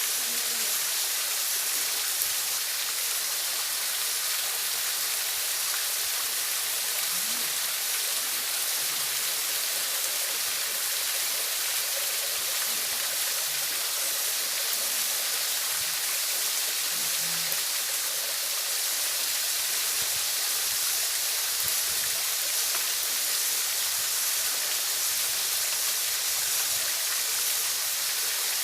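Waterfall: a steady, unbroken rush of falling water, heaviest in the hiss range.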